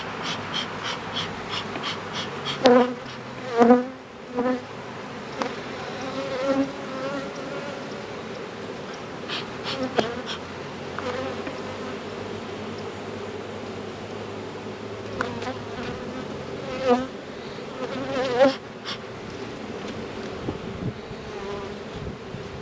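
Honeybees buzzing around an opened hive, a steady drone with single bees zipping loudly past close by a few times, about three and four seconds in and again near the end. The colony is disturbed and defensive, stinging the beekeeper. A few light clicks are heard.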